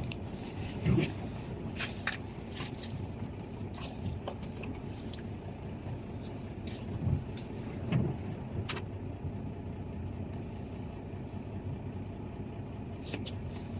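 A large vehicle's engine running with a steady low rumble, with scattered knocks and rattles; the loudest thumps come about a second in and about eight seconds in.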